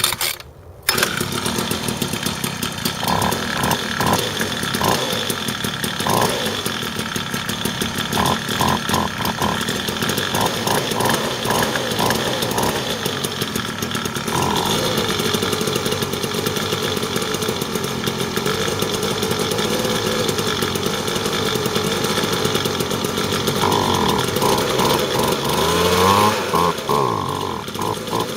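Homelite Yard Broom 2 two-stroke leaf blower cold-starting: it catches on a pull-start about a second in, on the second pull, and runs steadily from then on. Its pitch rises and falls briefly near the end.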